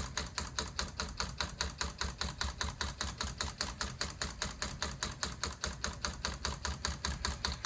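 Homemade solenoid engine running, its four solenoids driving steel pins back and forth in a plastic tube to turn a flywheel: a fast, even clicking, about six clicks a second.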